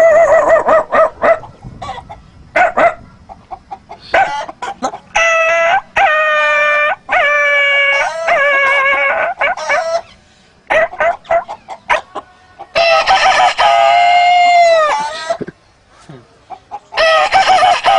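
A man's voice imitating a rooster crowing: a run of drawn-out, pitched crowing calls, the longest about halfway through ending in a falling tail, with short clucking sounds between them.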